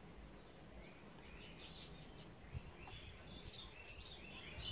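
Faint bird chirping: a string of short, quick, high chirps over room noise, with one small click about two and a half seconds in.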